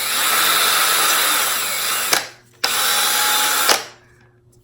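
Cordless drill spinning the hand plane's adjuster knob, mounted on a screw, while its threads are brushed. It runs for about two seconds, stops briefly, runs again for about a second, then stops.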